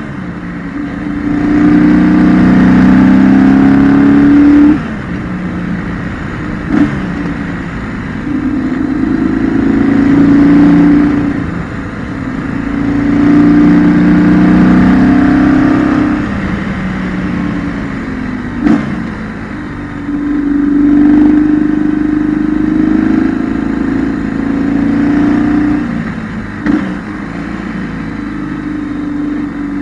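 BMW R1200GS boxer-twin engine heard onboard, repeatedly accelerating hard with rising pitch and then dropping back off the throttle, about five times, as the motorcycle is ridden through a series of curves. Three brief sharp knocks are heard during the quieter off-throttle stretches.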